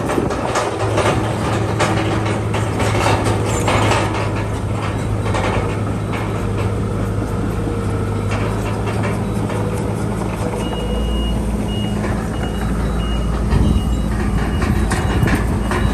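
Heavy diesel earthmoving machine running, with metallic clanking in the first few seconds. About eleven seconds in, a reversing alarm starts beeping at an even pace.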